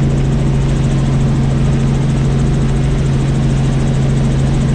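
Helicopter in flight, heard from on board: steady engine and rotor noise with a strong, constant low drone.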